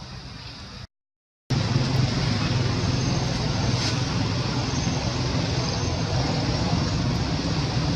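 A steady noisy rumble with a low hum, like passing road traffic or an engine running. It cuts out to dead silence for about half a second about a second in, then comes back louder.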